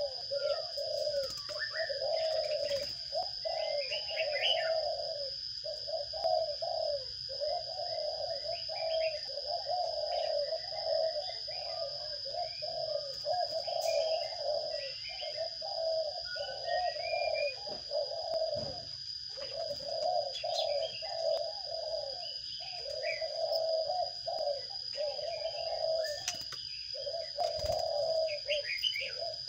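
Sparrows chirping in short, scattered notes over a low bird call repeated almost without pause in roughly one-second stretches, with a steady high-pitched whine underneath.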